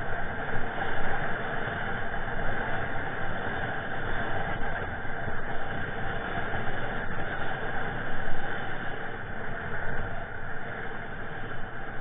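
Strong wind buffeting the microphone: a steady rushing noise with a deep, gusty rumble that swells and eases irregularly.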